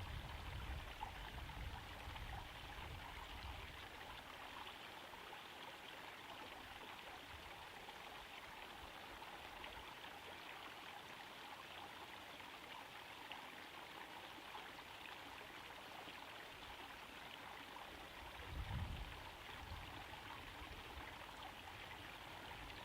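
Small garden pond waterfall trickling steadily into the pond, an even splashing hiss. Low rumbling in the first few seconds, and one brief low rumble about three-quarters of the way through.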